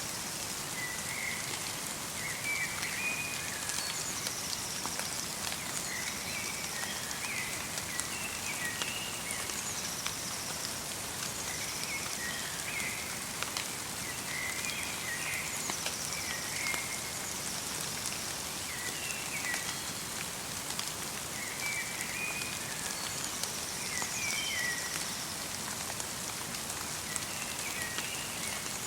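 Light rain pattering steadily in a forest, with many small drop ticks. A small bird calls in short chirping phrases every few seconds.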